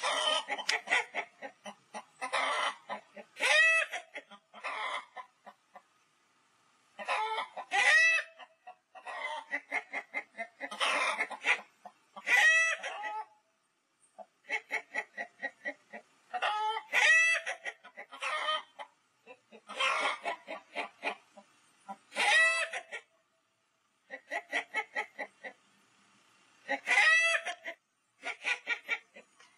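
Chickens clucking in quick runs, many of them ending in a louder drawn-out call, with short pauses between the runs.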